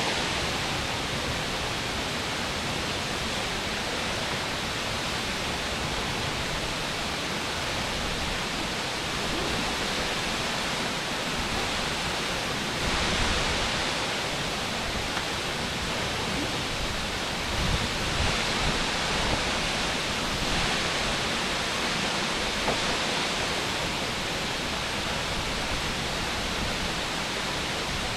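Aber Falls, a waterfall dropping about 120 feet into a shallow rocky pool, making a steady, even rushing of falling water, swelling slightly a couple of times.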